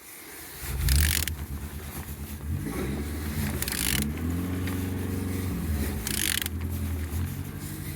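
Used engine being cranked over without starting, to check that it turns and has compression: a steady low mechanical whir whose pitch rises and falls as it turns, starting about a second in and stopping shortly before the end. Three short hisses break in over it.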